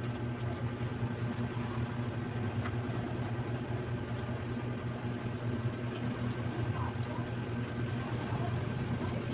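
Steady low mechanical hum of a running motor, with a few faint small clicks over it.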